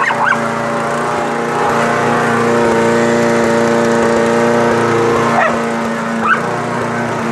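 Blue nose pit bull barking at a running walk-behind lawn mower, whose small engine drones steadily underneath. The barks are short: one near the start and two more about five and six seconds in.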